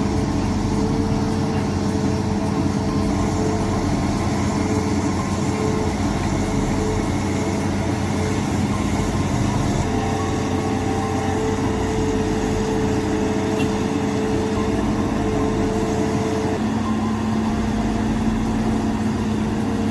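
A heavy vehicle's engine running steadily, its pitch stepping up a little about sixteen seconds in.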